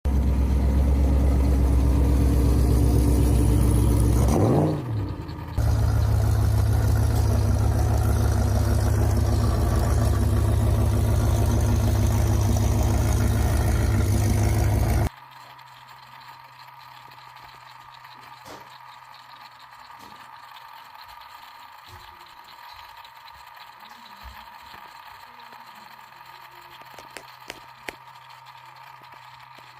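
Ford SVT Lightning pickup's V8 engine running loud and steady, with a quick rev up and back down about four to five seconds in. The engine sound stops abruptly about halfway, leaving a faint steady hum and a few light clicks.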